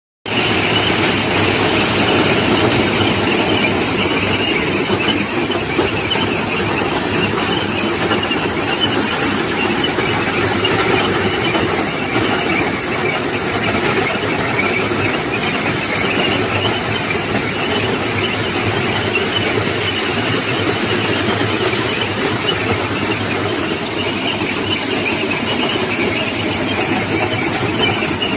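Railway ballast cleaning machine working on the track: a loud, steady mechanical noise that holds unbroken throughout.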